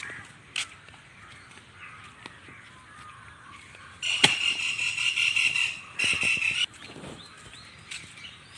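Birds calling faintly, broken by a loud pulsing buzz that starts abruptly about four seconds in and lasts nearly two seconds, then comes again briefly.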